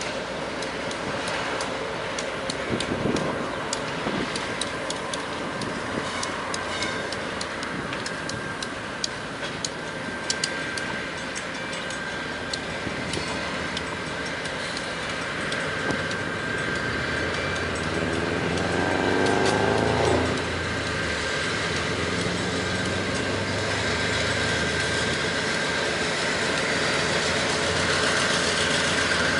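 Freight train with CSX diesel locomotives rolling by: rapid clicks of wheels over rail joints and a thin steady wheel squeal. About 18 seconds in a diesel engine revs, rising in pitch for a couple of seconds, and then locomotive diesel engines run steadily, growing a little louder near the end.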